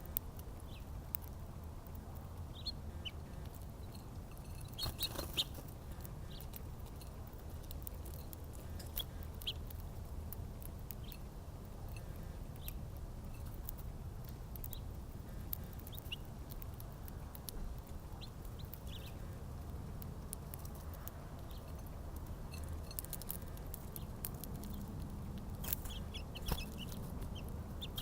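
Small birds at a backyard feeder giving short, scattered chirps, with a few sharp clicks among them. A steady low rumble runs underneath.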